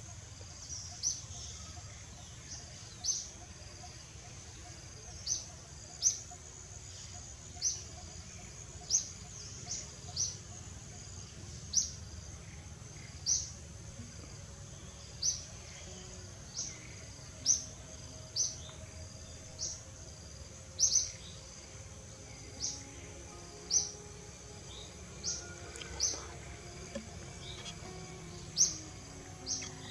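A bird gives short, high chirps, one every second or two, over a steady low outdoor rumble.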